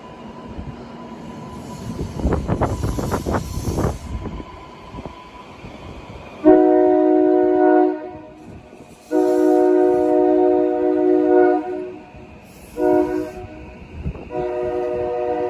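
Train horn sounding the grade-crossing signal, two long blasts, one short and a final long one, a chord of several steady tones. Before it, a few seconds of clicking and rumbling from train wheels over the rails.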